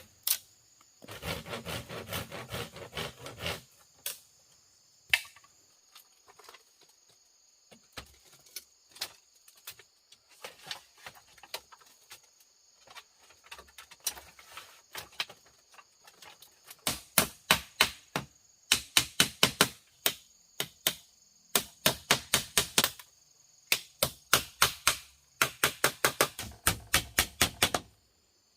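Wood being worked with hand tools: a short run of saw strokes, then long bursts of rapid sharp knocks on wood, about six a second, from about halfway through. A steady high-pitched buzz runs behind.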